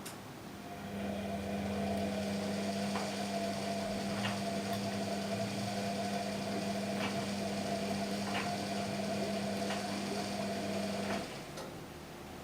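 Washing machine running: a steady electric motor hum starts about a second in and cuts off abruptly near the end, with a few faint clicks over it.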